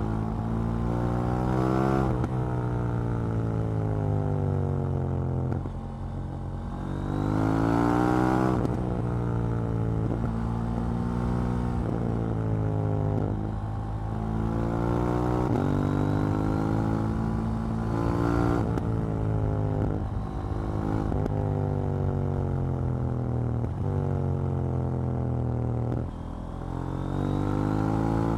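KTM 790 Duke's parallel-twin engine and exhaust under way, the revs climbing and dropping several times as the bike accelerates, changes gear and rolls off. The strongest climb comes about eight seconds in, followed by a long fall in revs.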